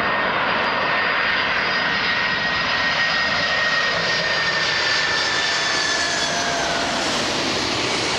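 Boeing 747-400 jet engines running loud and steady, with a whine that slowly falls in pitch over the second half.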